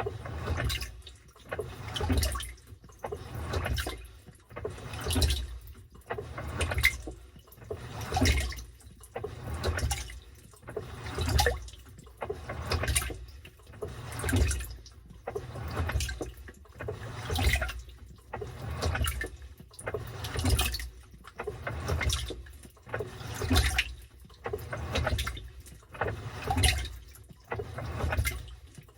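Washing machine in its wash cycle, water sloshing and churning in a regular swell about every one and a half seconds as the drum or agitator turns back and forth.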